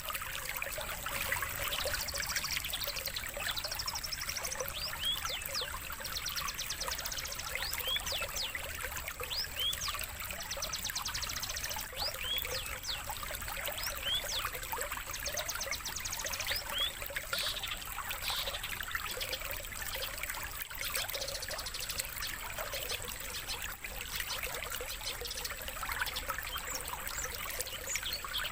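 Songbirds calling in quick chirps, short sweeps and buzzy trills over a steady trickle of running water, with a thin, high, steady tone underneath.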